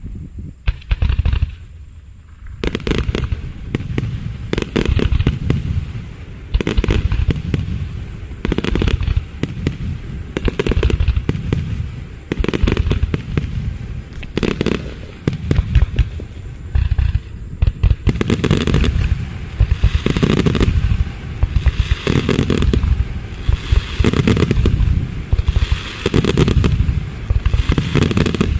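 Fireworks display: shells bursting overhead in rapid, continuous volleys of booms and crackles, with a short lull about two seconds in.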